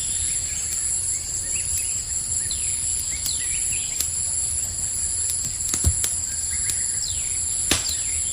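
Campfire crackling with scattered sharp pops, two louder ones about six and eight seconds in. Under it runs a steady high chorus of crickets, with short falling bird chirps.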